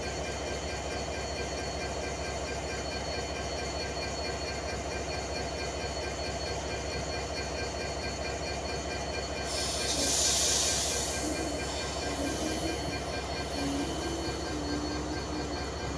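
A train running steadily, with a louder burst of hissing noise about ten seconds in.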